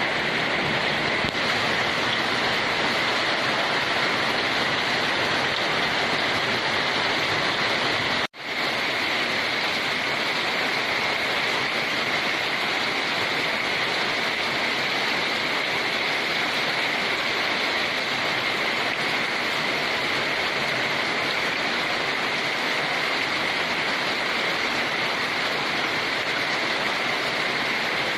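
Steady, even downpour of rain, with a momentary drop-out about eight seconds in where the recording cuts and resumes.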